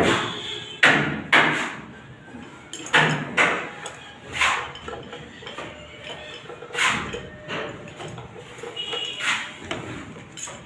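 Irregular hammer blows, about eight sharp knocks with a brief metallic ring, some in quick pairs.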